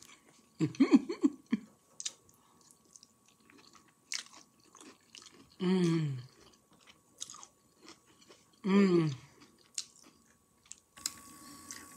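A person chewing a mouthful of sweet and sour chicken and noodles close to the microphone, with small wet clicks and crunches. Three brief vocal sounds, without words, come about a second in, near the middle and near the end.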